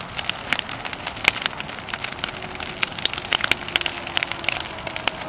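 Large bonfire of burning branches crackling and popping, many irregular sharp snaps over a steady rush of flame.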